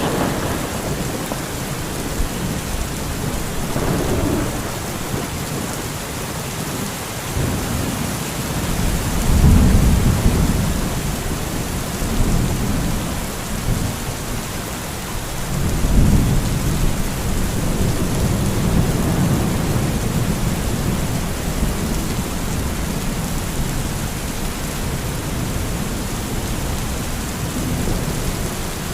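Steady heavy rain with rolling thunder: several deep rumbles swell and fade under the rain, the strongest about ten and sixteen seconds in.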